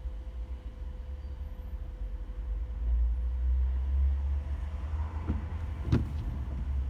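Car interior driving noise in slow city traffic: a steady low engine and road rumble that swells about three seconds in. Two short sharp knocks come near the end.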